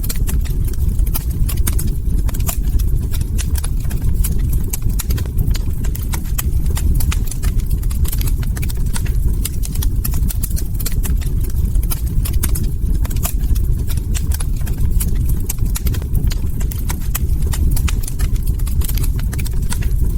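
Log fire crackling: a dense, irregular stream of small pops and snaps over a steady low rumble of burning wood.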